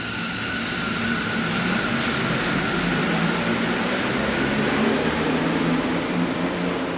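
Mexico City Metro NM-16 rubber-tyred train running into the station: a steady rolling rush with a low hum and a high whine that fades out about four seconds in.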